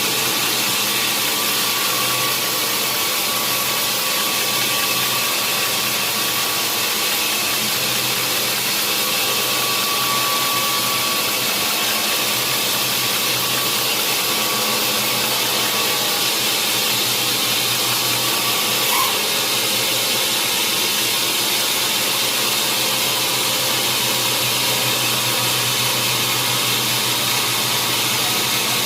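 Sawmill machinery running steadily: a constant loud mechanical noise with a low hum underneath, and a single small click about two-thirds of the way through.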